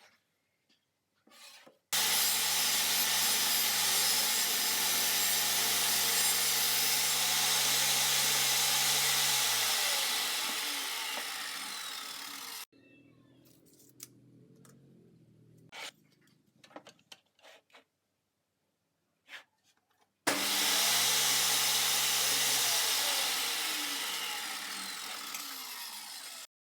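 Electric power tool cutting plywood: two runs of several seconds, each starting and stopping abruptly, with the motor's hum dropping in pitch toward the end of each run. Between the runs, faint scattered knocks.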